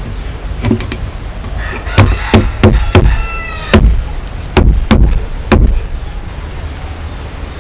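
A series of sharp knocks, about nine strikes spread over a few seconds, some in quick pairs, with a short squeak about three seconds in. It sounds like something hard striking wood.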